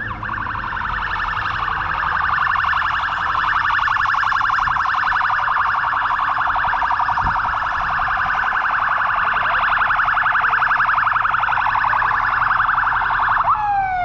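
Emergency vehicle siren sounding in a rapid, fast-pulsing yelp, loud and steady, then winding down in falling sweeps near the end.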